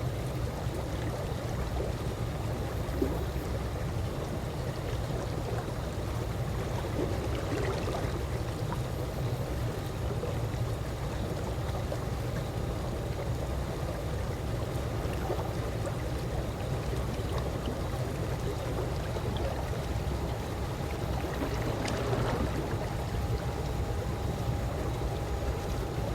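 Calm swimming-pool water lapping and trickling over a steady low rumble, with a faint steady hum and a couple of small splashes.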